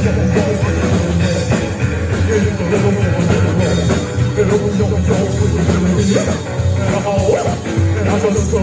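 Rock and roll band playing a song live.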